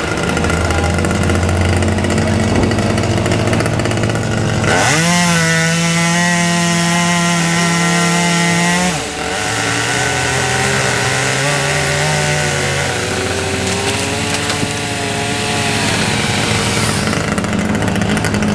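Chainsaw revving up sharply about five seconds in and holding at high speed for about four seconds as it cuts wood, then dropping back and running at a lower, wavering speed, over a steady low hum.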